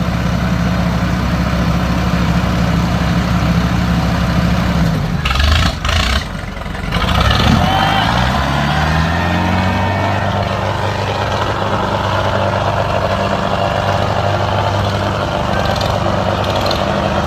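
Diesel tractor engine running hard under heavy load in a tractor tug-of-war. About six seconds in the note dips briefly, then climbs as the engine revs up and holds a higher steady pitch while it pulls.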